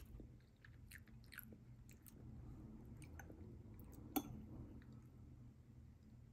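Faint chewing and small mouth clicks of someone eating a homemade avocado banana brownie, with a fork clinking once against a ceramic plate a little after four seconds in.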